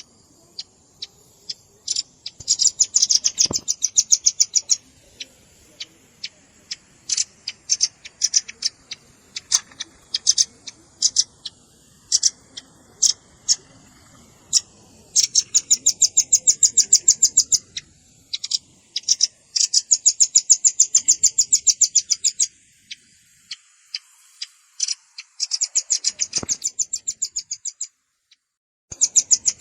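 Velvet-fronted nuthatch calls: rapid high-pitched trills lasting from one to about three seconds, separated by single sharp chips. The calls stop briefly a little before the end.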